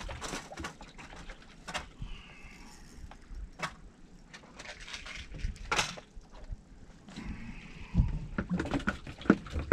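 Handling noises from fishing gear: scattered sharp clicks and knocks, then a run of heavier thumps and clicks near the end.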